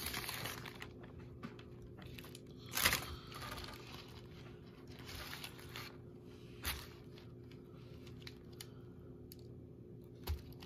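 Sandwich wrapper paper rustling and tearing in a few short bursts, the loudest about three seconds in, over a steady low hum.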